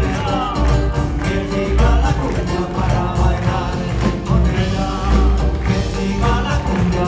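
Live band playing Peruvian music, with a strong regular bass beat under sustained instrumental notes and singing voices.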